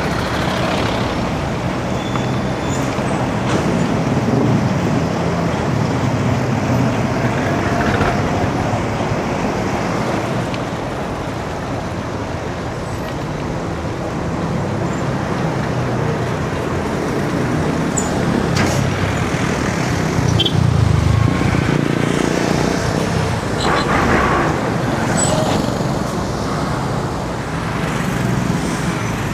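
Street traffic around a cyclist: motor vehicles running and passing, with engine and tyre noise that swells as vehicles go by.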